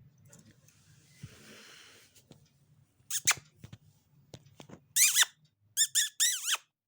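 Indian ringneck parrot screeching: one sharp high call about three seconds in, then a rapid series of loud, wavering squawks near the end, after a few faint clicks.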